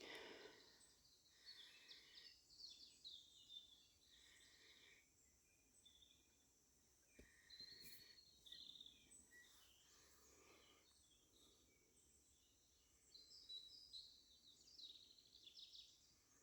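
Faint evening birdsong: scattered short chirps and song phrases from small birds in several spells, with quiet gaps between.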